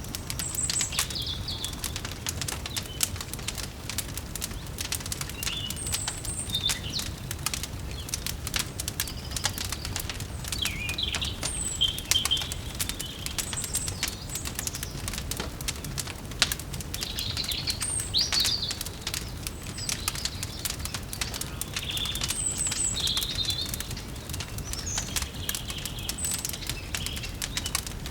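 Fireplace fire crackling with frequent sharp pops over a low steady hum, while small birds chirp in short calls scattered through.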